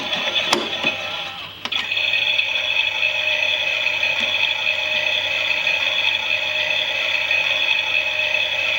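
Klein toy Miele washing machine's small geared electric motor running, a steady whine as the drum turns. About one and a half seconds in it briefly drops, then a click sounds and it runs on steadily.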